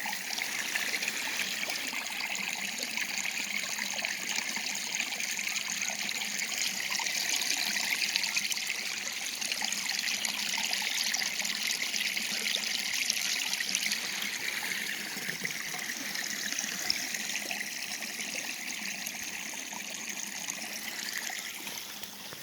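Flowing water trickling steadily.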